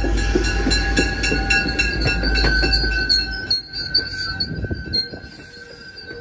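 MBTA commuter rail coaches rolling past as the train comes into a station stop, wheels clicking over rail joints and brakes squealing with steady high tones. The low rumble drops away about halfway through as the train slows.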